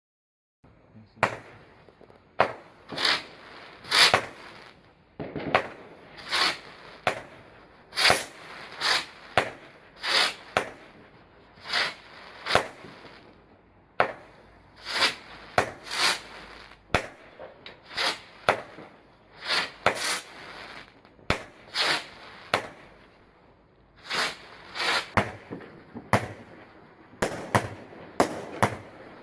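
Fireworks going off: a long, irregular run of sharp bangs, about one or two a second, each trailing off in a short echo.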